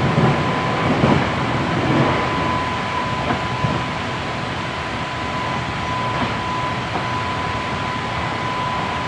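Hankyu 7300 series electric train running, heard from inside the car: a steady rumble and rail noise with a thin steady high tone, and a few knocks of the wheels over the track in the first two seconds.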